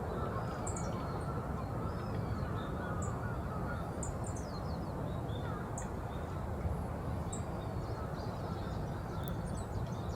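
Scattered short, high, thin bird call notes over a steady low rumble of city background noise.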